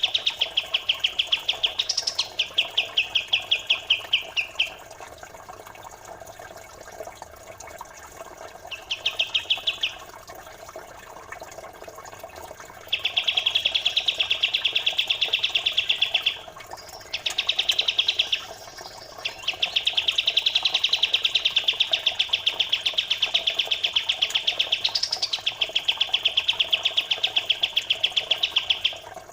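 A small songbird's very fast, densely packed trill of repeated high notes, in long runs broken by a few pauses, played as a training song for contest birds. Trickling water runs steadily underneath.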